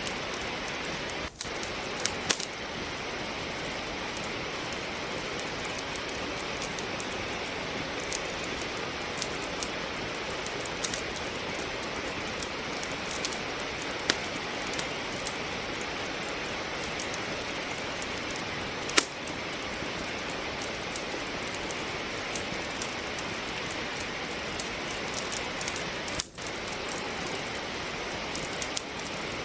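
Steady rain hiss mixed with a wood fire crackling in a fireplace, giving irregular sharp pops, one louder pop about two-thirds of the way through.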